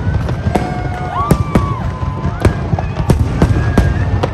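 Fireworks display: sharp bangs of shells bursting at irregular intervals, about two a second, over a continuous low rumble of further explosions.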